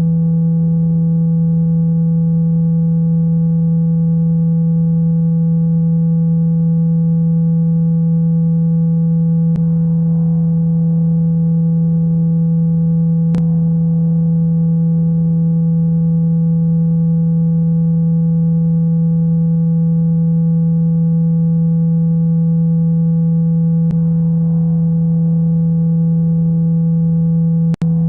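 A loud, steady low-pitched sine tone, played through a phone speaker to vibrate water out of it. A few faint clicks sit on the tone, and it briefly drops out near the end.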